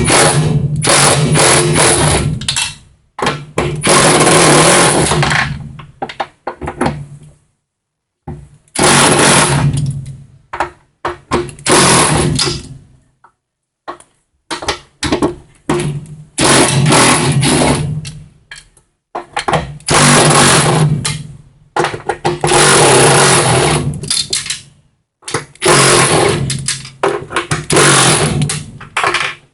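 Electric power tool run in repeated bursts of a second or two each, with a steady motor hum under a loud whirring noise, briefly winding down after each trigger release.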